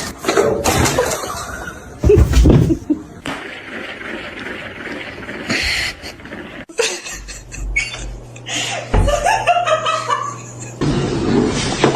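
People laughing and chuckling, with music, the sound changing abruptly several times.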